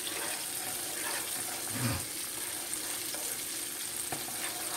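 Steady sizzle of chicken wings frying in hot grease, with a pot of fettuccine on the boil being stirred. A soft low bump comes just before two seconds in.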